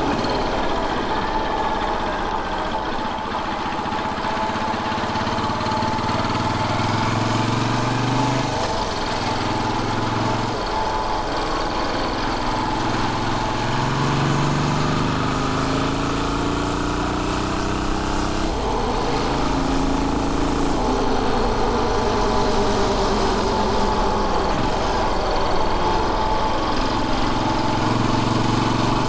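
Royal Enfield Bullet 500's single-cylinder four-stroke engine running on the move. Its pitch climbs and drops back several times as it pulls through the gears.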